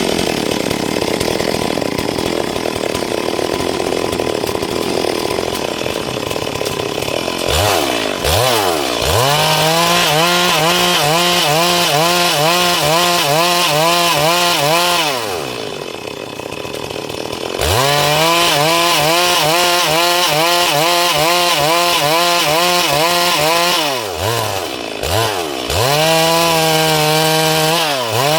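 Stihl MS 382 two-stroke chainsaw cutting through dry wood, then running at high, steady revs. The revs fall away briefly about halfway through and again near the end, then pick back up.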